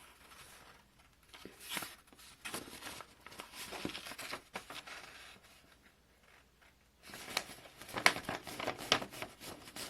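A sheet of paper being folded in half and the crease pressed down, with crisp rustling and crackling that comes in two spells, the louder one in the last few seconds.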